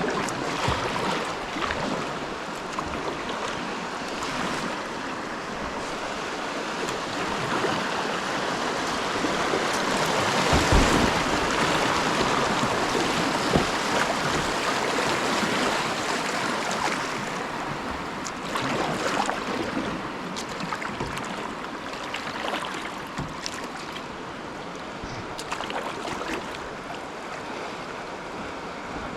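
Rushing whitewater of a river rapid, with splashing as a kayak runs through it. The rush swells to its loudest about ten to fourteen seconds in, then eases.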